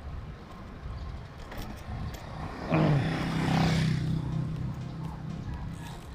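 Wind rumbling on the microphone while cycling; about two and a half seconds in, a motor vehicle passes close by, its engine drone dropping in pitch, then holding steady and slowly fading.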